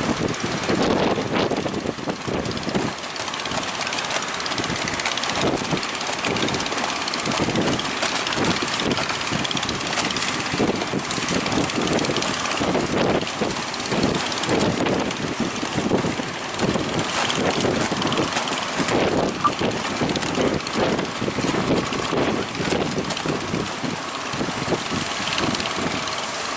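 Strong wind buffeting the microphone over a running engine, most likely a fishing boat's motor, in a steady, dense noise with constant gusting flutter.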